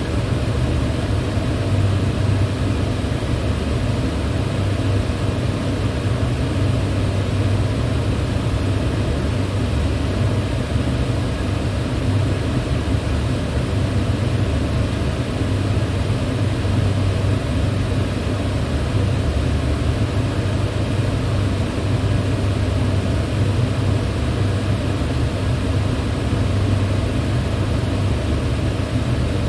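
Electric fan running steadily: an even whoosh of moving air over a low motor hum, with no change in speed.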